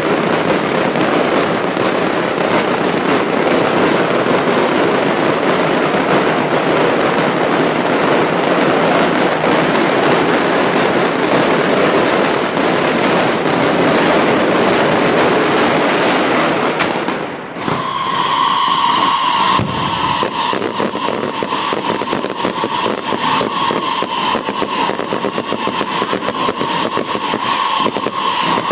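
Daytime fireworks: a dense, continuous crackling barrage of firecrackers. About two-thirds of the way through it breaks off briefly, then gives way to a steady high whistle over rapid crackling.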